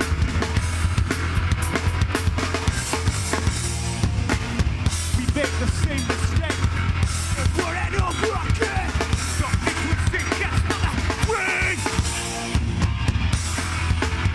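Live rock band playing: fast, steady drum-kit hits with bass drum and snare over a sustained low bass and guitar, with wavering pitched guitar lines through the middle.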